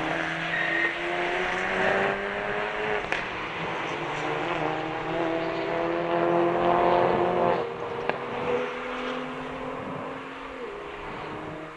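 Rally car engine under hard acceleration, its pitch climbing through the gears and loudest just before a drop about two thirds of the way through, then running lower and fading away.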